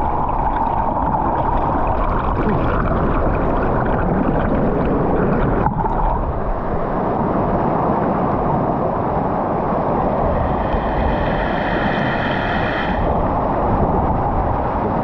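A waterfall's steady rush of falling water, close and loud. Near the end a faint high tone is held for a couple of seconds.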